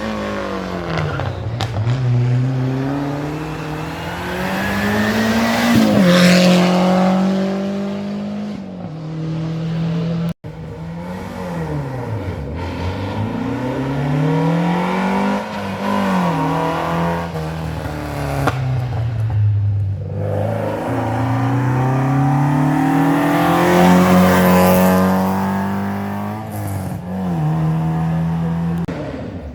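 Rally cars at full attack on a special stage. Each engine revs hard up and down through gear changes and lifts, and gets loudest as the car passes close, about six seconds in and again about twenty-four seconds in. The sound breaks off for a moment about ten seconds in.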